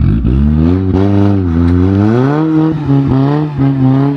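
Demolition derby car's engine revving, its pitch dipping and then climbing about two seconds in and holding higher, with a few short knocks.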